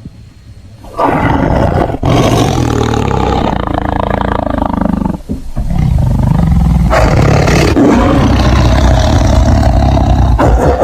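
A large animal roaring loudly in two long stretches, with a short break about five seconds in.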